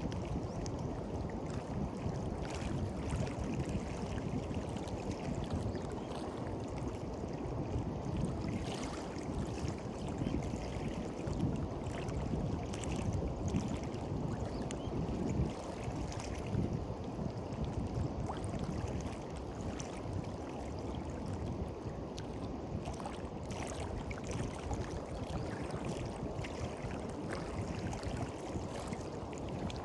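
Sea waves washing onto a beach, their hiss swelling and fading every second or two, over a steady low rumble of wind on the microphone.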